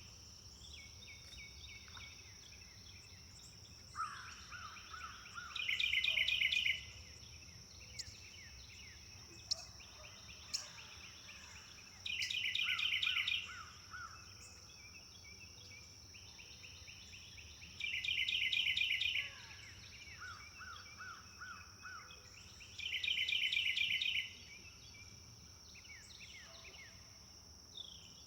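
Birds singing: a loud phrase of rapid repeated notes about every six seconds, with shorter series of four or five lower repeated notes in between, over a steady high insect drone.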